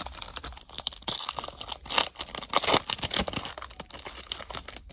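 Foil wrapper of a baseball card pack being torn open and crinkled by hand, an irregular crackling that dies away near the end.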